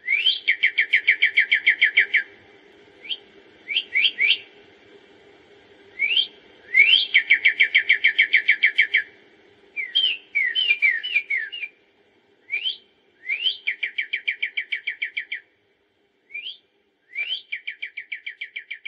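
A songbird singing: a rising slurred whistle, then a fast trill of falling notes lasting two to three seconds, repeated four times with single slurred notes between. A faint steady hum runs underneath for the first two thirds.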